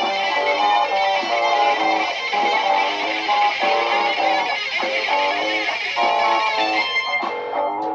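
Layered electric guitar loops play a run of quick picked notes over a sustained high droning tone. Near the end the upper layer thins out and drops away briefly.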